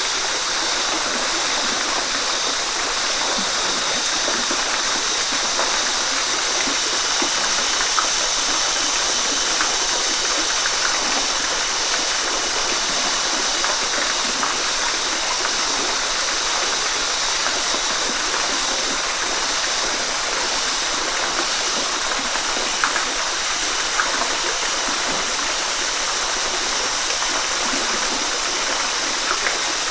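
Waterfall: falling water splashing in a steady rush, with small splashes scattered through.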